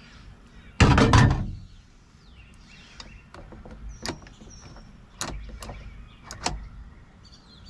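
Metal parts of a Baldwin mortise lock being handled and worked: a loud half-second clunk about a second in, then a series of sharp clicks and small knocks.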